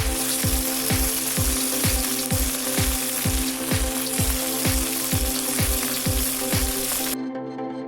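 Chicken thighs sizzling in a cast-iron Dutch oven, an even frying hiss, over background music with a steady low beat about twice a second. The sizzle cuts off suddenly about seven seconds in, leaving only the music.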